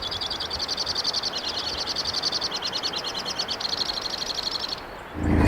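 A small animal's high, fast-pulsing trill, steady for nearly five seconds and then stopping. Just before the end, a loud car engine starts revving.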